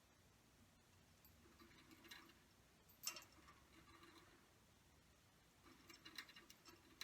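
Near silence: room tone with a few faint small clicks and rustles, a cluster of them about six seconds in.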